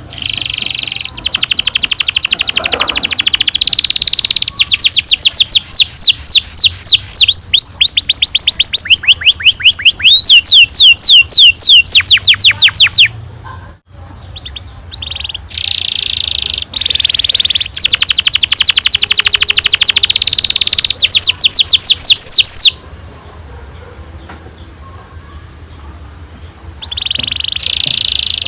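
Domestic canary singing long rolling trills: fast runs of rapidly repeated sweeping notes. The song breaks off briefly about halfway, resumes, falls quiet for a few seconds near the end, then starts again.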